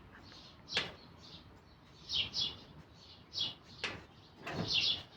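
Small birds chirping in short repeated notes, with a few sharp clicks or knocks in between.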